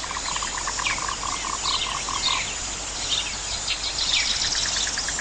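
Natural outdoor chorus: birds giving repeated short downward-slurred chirps, with a fast pulsed call of about five notes a second that stops about two and a half seconds in, and a brief high buzzy trill near the end, over a steady hiss.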